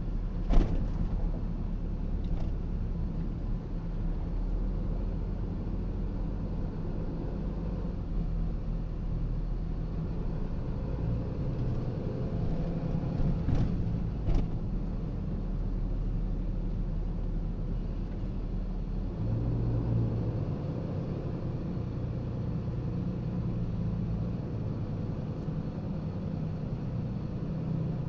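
Steady low road and engine rumble of a car driving slowly, heard from inside the cabin, with a few short knocks: one about half a second in and two close together near the middle.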